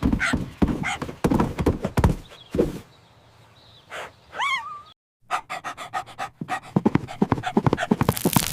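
A cartoon dog panting in quick rhythmic breaths, then, after a short pause, one short whine that bends up and down. A moment of dead silence follows, then rapid clicks that thicken into a dense electric crackle near the end: static building up.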